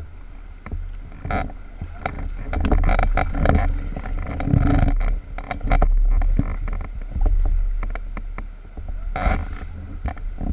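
Kayak paddling on a river: irregular splashes and knocks of the paddle in the water and against the boat, over a steady low rumble.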